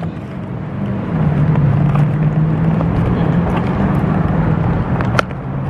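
An engine runs steadily with a low, even hum, and there is one sharp click about five seconds in.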